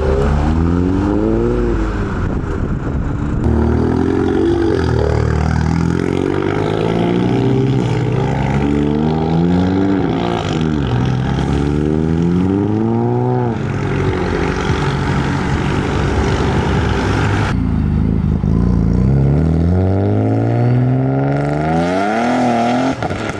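Modified car engines accelerating and revving, the engine pitch climbing and falling back again and again.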